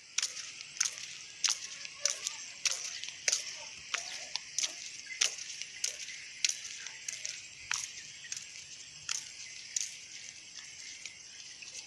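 Swiftlet calls: a dense high twittering with a sharp chirp repeating very evenly, about every two-thirds of a second.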